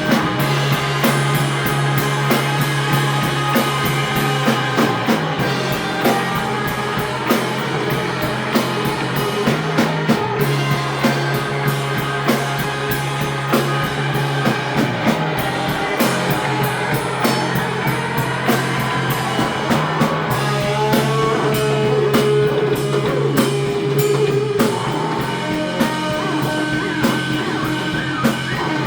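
Live surf-punk rock band playing an instrumental passage: drum kit with steady cymbal and drum hits under electric guitars.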